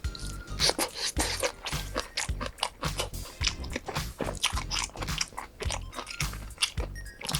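Close-miked eating sounds: repeated crisp bites and crunching chews, with sharp irregular clicks throughout.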